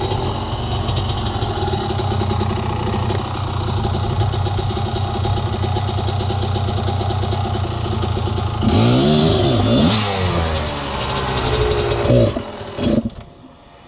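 Enduro dirt bike engine running steadily, then revved up and down several times before cutting out near the end.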